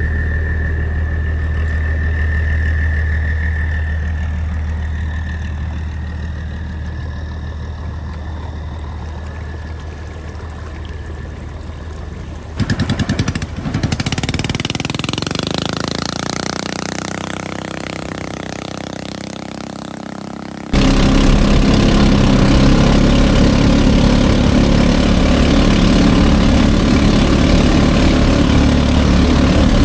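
Small 8.5 hp boat engine running on the water, heard in three edited stretches: a steady hum at first, a changing pitch in the middle, and from about two-thirds in a much louder steady noise of the engine at speed.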